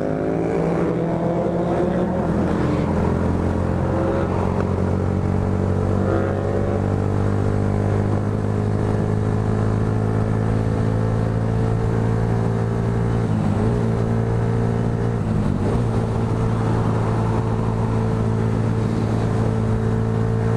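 Motorcycle engine accelerating, its pitch rising over the first couple of seconds, then holding a steady cruising note with two brief dips in the middle, over steady wind and road noise.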